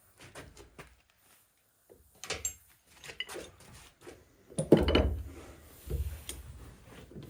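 Metal transmission parts and tools being handled on a workbench: a run of clinks and knocks, some with a short metallic ring. The loudest is a heavier clunk and scrape a little past halfway, with a smaller one about a second later.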